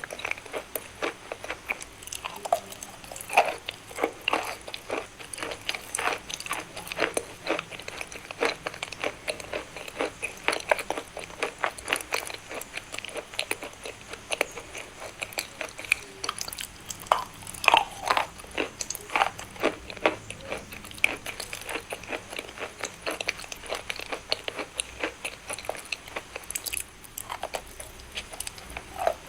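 Crunchy chalk being bitten and chewed up close: a dense run of irregular sharp crunches and crackles, with louder bites every few seconds.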